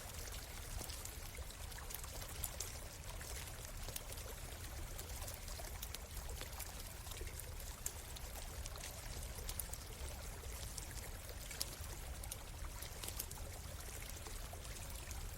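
Small stream running steadily, with scattered sharp crackles and pops from a wood campfire.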